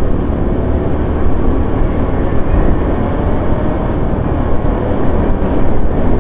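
Steady low rumble of wind on the microphone and road noise from a vehicle moving through city traffic.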